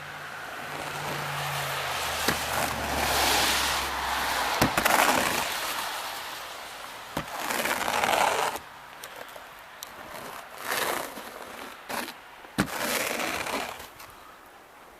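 Light powder snow being brushed off a car: a series of sweeping swishes, each a second or two long, with a few sharp knocks in between. A low hum underneath stops about four and a half seconds in.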